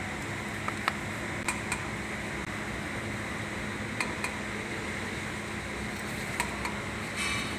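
Metal tools and engine parts clinking against each other a few times in pairs, with a short rattle near the end, over a steady background hum.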